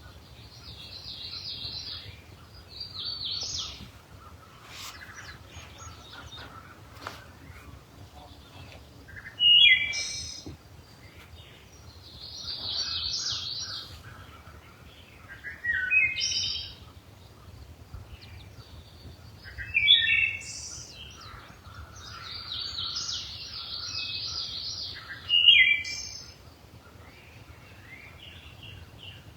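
Wild songbirds singing. Longer rapid trilling songs alternate with a louder, short falling phrase that rings out four times, and fainter chirps fill the gaps.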